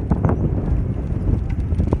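Bicycle riding with a rapid, irregular clatter of knocks over a steady low rumble of wind on the microphone.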